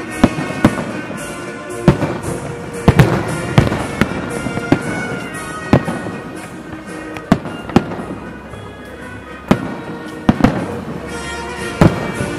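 Aerial firework shells bursting overhead: a dozen or so sharp bangs at uneven intervals, with music playing underneath.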